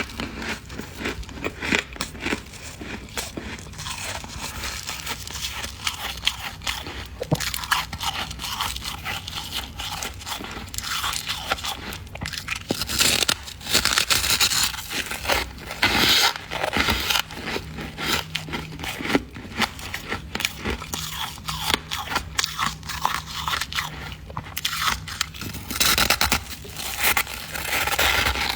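Frost in a deep freezer being scraped and crunched: a dense, irregular run of scrapes and crackling crunches, louder for a few seconds a little before the middle.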